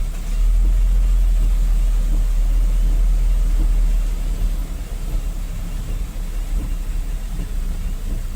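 Diesel dump truck running on a steep mountain track: a steady deep engine rumble that is louder for the first few seconds, then eases back about four seconds in.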